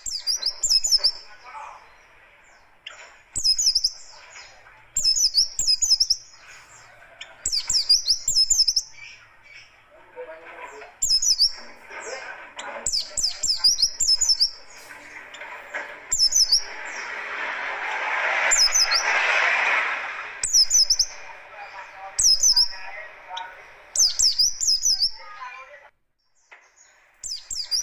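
White-eye (pleci) singing in short, rapid bursts of high chirps, repeating about every second and a half. Beneath the song runs a lower rushing noise that swells loudest a little past the middle.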